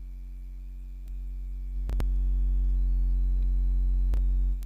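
Steady low electrical mains hum picked up by the recording setup, which grows louder about a second in and drops back near the end. Two sharp clicks land about two seconds in and again a little after four seconds.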